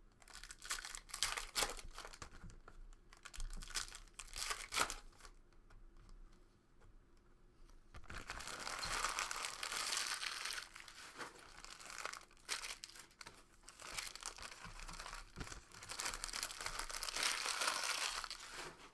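Foil trading-card pack wrappers being torn open and crumpled: sharp crackles in the first few seconds, a short lull, then a long stretch of steady crinkling.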